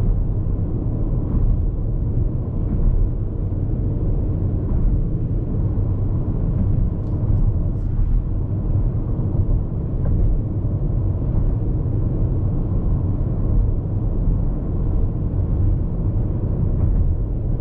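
Steady road noise heard inside the cabin of a Hyundai IONIQ 5 electric car at highway speed: a low, even rumble of tyres on the road with wind noise over it, and no engine sound.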